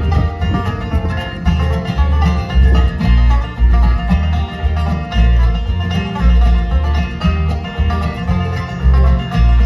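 Bluegrass band playing an instrumental passage, banjo picking over guitar with a steady bass beat.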